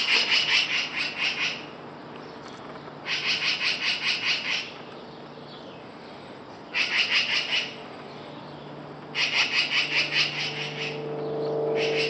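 Birds scolding with rapid, harsh chattering alarm calls in repeated bursts of about a second and a half, five bouts a few seconds apart: nesting birds mobbing a cat near their nest. A faint low hum runs underneath and swells near the end.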